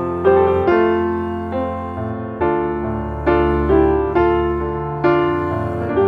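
Soft piano music: gentle chords struck about once a second and left to ring and fade.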